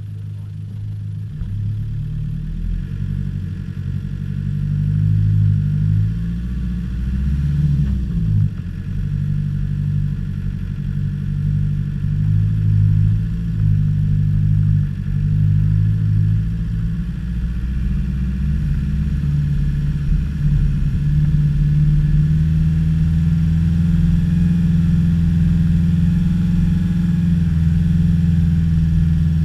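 Land Rover Discovery engine working over rough off-road ground. Its pitch rises and falls with the throttle, then it runs steadier and a little louder for the last third.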